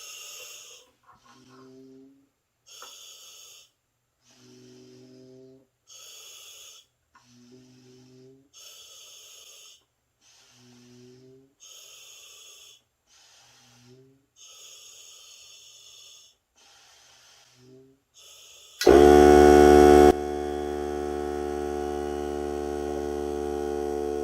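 Repeated breaths drawn through a hookah diving regulator, each a short hiss, roughly one every second and a half. Near the end, a Hart cordless air compressor kicks back on as the breaths draw down its air pressure. It starts loud for about a second, then settles into a steady running hum.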